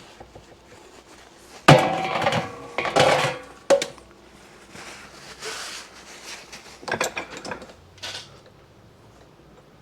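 Metal tools and fork parts clanking and rattling during motorcycle fork disassembly. A sharp clank about two seconds in is the loudest, another comes near four seconds, and there is a cluster of rattles about seven seconds in.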